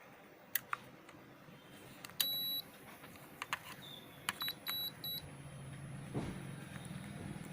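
LG split air conditioner's indoor unit beeping in answer to the remote: one longer high beep, then a quick run of four short beeps, after a couple of soft clicks. A low hum builds in the second half.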